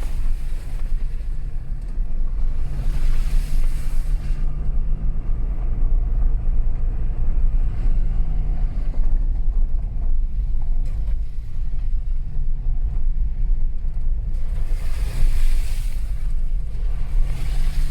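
A vehicle's engine running steadily while driving, over a heavy wind rumble on the microphone. A hissing rush rises twice, early on and again near the end.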